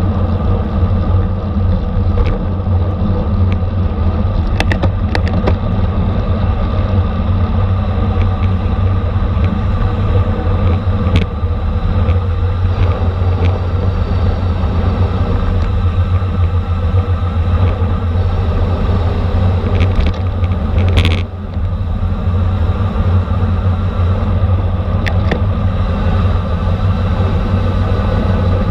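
Steady wind and road rumble of a racing bicycle moving at speed, with a few sharp clicks.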